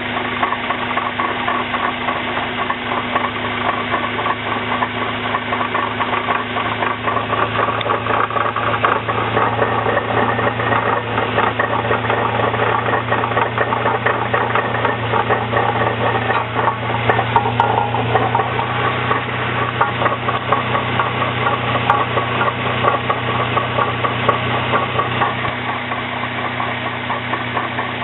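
Vehicle engine running with the transmission held in second gear, turning the axles: a steady hum under a dense, rapid rattle. The rattle is the unexplained transmission noise the owner is trying to diagnose.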